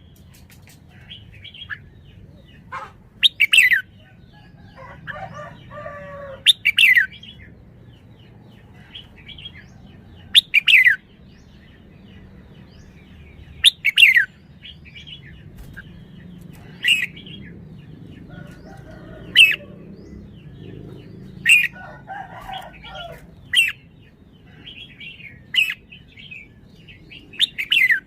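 Red-whiskered bulbul calling: short, loud notes that fall in pitch, repeated every two to four seconds, with softer chirping in between.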